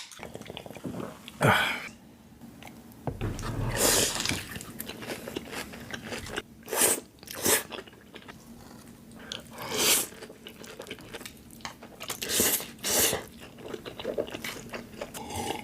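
Close-miked eating: crunchy bites and chewing of crispy food, with about seven loud, sharp crunches spread through and quieter chewing between them.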